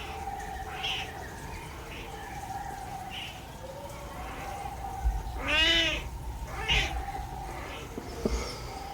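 Birds singing and calling: a wavering, repeated trill-like note keeps coming back, with short chirps between. About five and a half seconds in, a loud, cat-like mewing call rises and falls.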